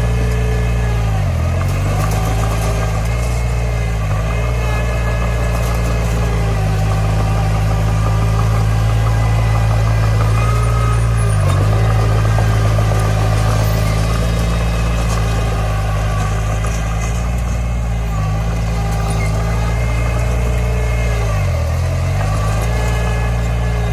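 Diesel engine of a Komatsu D20 small bulldozer running steadily under work, its note dipping briefly about every ten seconds.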